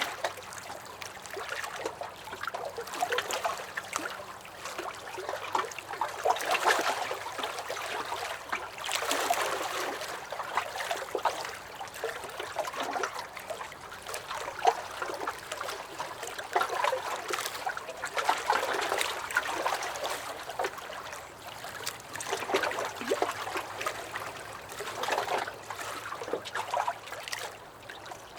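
Small lake waves lapping and sloshing against a dock, in uneven swells every few seconds.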